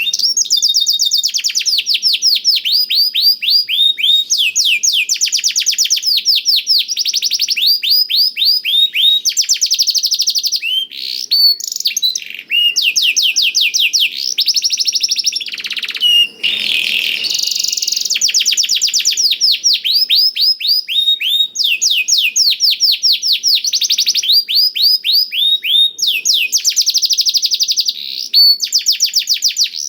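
Domestic canary singing a long, continuous song of rapid trills: phrase after phrase of fast, repeated, high sweeping notes, with phrases learned from the blackthroat (black-throated canary). There are brief breaks about twelve and sixteen seconds in.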